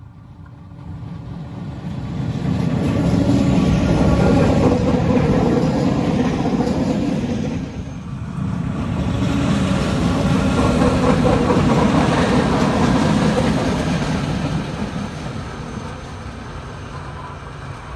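1943 BCFe 4/4 electric railcar and its old coaches passing close by, wheels running on the rails with a steady hum. The sound builds to a peak, dips abruptly about halfway, then rises again and fades away near the end.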